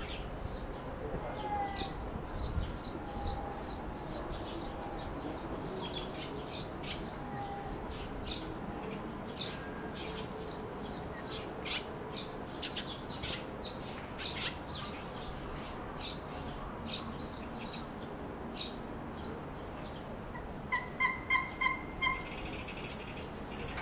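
Birds calling: many short, high chirps scattered throughout, and near the end a quick run of about six louder, lower notes.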